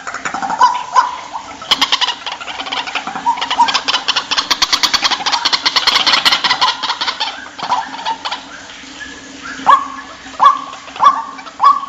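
White-breasted waterhen calling: a fast run of clicking notes through the middle, then a series of short notes that rise sharply in pitch near the end.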